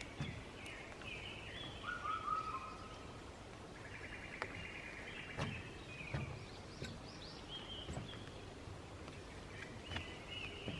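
Several small birds chirping and calling in short phrases, with a few footsteps thudding now and then.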